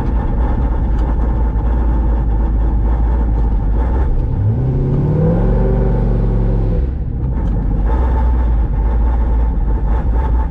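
High-horsepower car engine and exhaust running under way with a steady low rumble. About four seconds in the engine revs up, its pitch climbing for roughly three seconds before it drops back and the rumble carries on.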